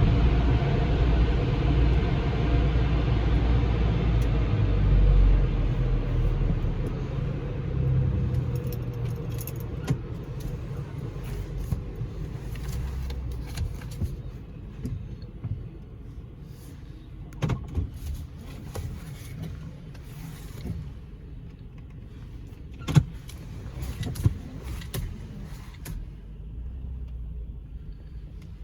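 Low rumble of car wash machinery heard from inside a car, loud at first and fading over about ten seconds. Then a quieter car cabin with a few sharp clicks and knocks.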